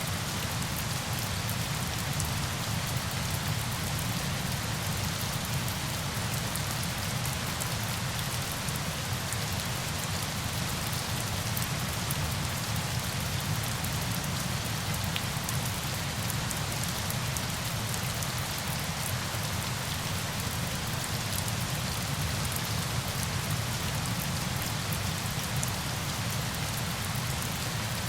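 Steady rain: a constant, even hiss of falling water with fine drop ticks.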